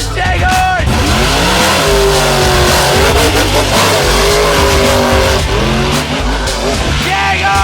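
Race truck engine revving hard at full throttle, its pitch climbing, holding high for a few seconds, dropping briefly and climbing again.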